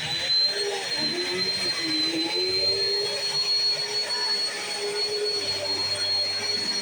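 Bissell CleanView Swivel Pet 2252 upright vacuum cleaner running while vacuuming: a steady, high motor whine over a lower hum whose pitch wavers up and down.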